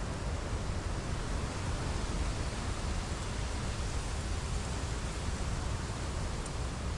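Steady wind buffeting the microphone: a continuous rushing noise with a heavy low rumble.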